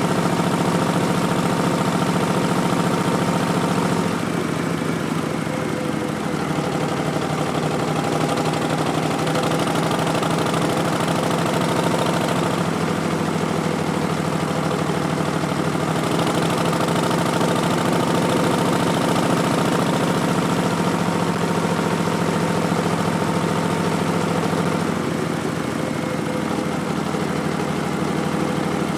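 Harley-Davidson Street Bob's Milwaukee-Eight 107 V-twin running under way through Vance & Hines Twin Slash slip-on mufflers, with the engine note stepping to a new steady pitch several times as speed and gear change.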